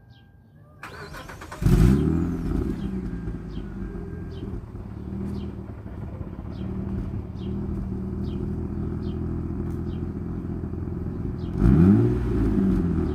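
2000 Mitsubishi Eclipse's 3.0-litre V6 with its stock exhaust being started: a second of cranking, then the engine catches with a flare in revs and settles to a steady idle. Near the end it is revved once and falls back to idle.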